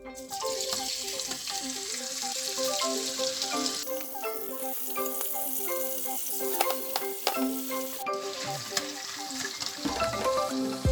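Food sizzling and frying in a hot pan, with a hiss that drops in strength about four seconds in and again near eight seconds. Light background music with mallet-instrument notes plays underneath.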